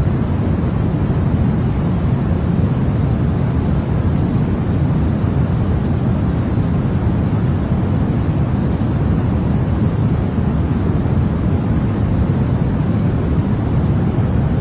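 Continuous baby-sleep white-noise track: a steady, even rush of noise, deep in tone with little high hiss, unchanging throughout.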